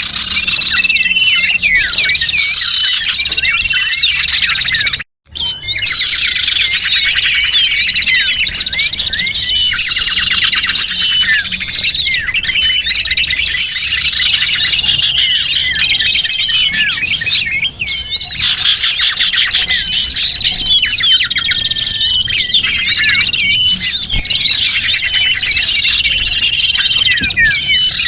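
Bird-lure recording of many small songbirds chirping and twittering at once in a dense, loud chorus of high, rapid notes. The chorus cuts out abruptly for a split second about five seconds in, then resumes.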